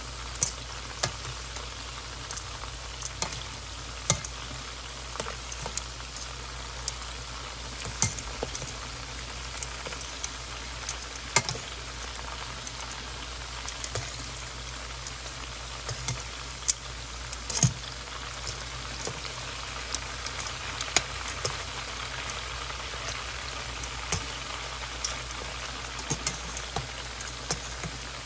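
Shrimp deep-frying in a wide pan of hot oil: a steady sizzle with sharp pops and crackles scattered throughout.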